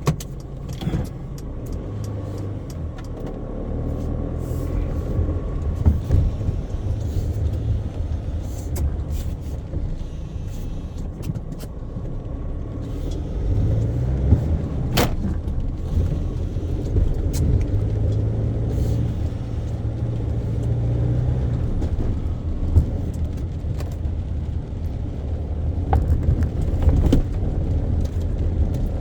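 Car driving through city traffic: a steady low engine and road rumble that swells and eases, with scattered light clicks and one sharp click about halfway through.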